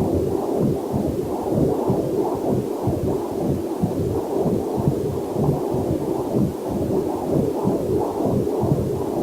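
Heartbeat picked up by a fetal Doppler monitor: fast, even whooshing pulses, about two to three a second.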